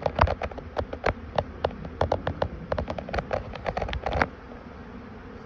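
Honeybees buzzing around an open hive, with many irregular sharp clicks and taps over the buzz for the first four seconds or so. The colony is agitated, more defensive than usual.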